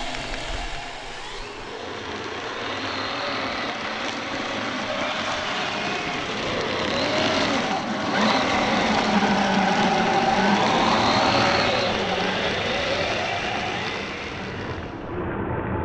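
Small RC vehicle's electric motor and geartrain whining, the pitch rising and falling over and over as the throttle is worked while it churns through heavy, wet snow.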